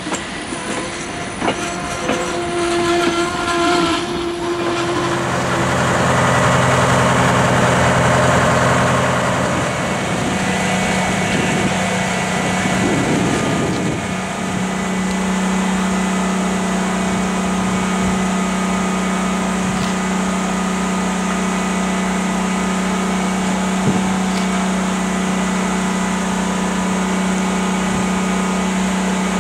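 A passenger train rolling past on the rails with wheel noise, loudest about seven seconds in. After about fourteen seconds it gives way to an engine running steadily at idle, a constant low hum.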